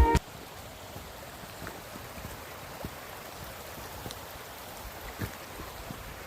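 Steady rush of a stream's running water, with a few faint ticks.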